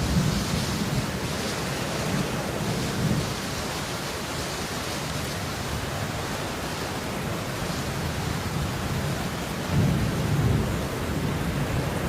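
Steady rain falling in an even hiss, with a low rumble swelling near the start and a stronger one about ten seconds in.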